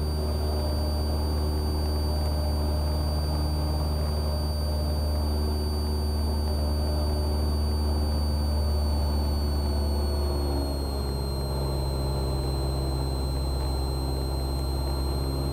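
Cessna 172R's four-cylinder Lycoming engine and propeller droning steadily in flight, heard from inside the cabin. Its pitch drops slightly about two-thirds of the way through.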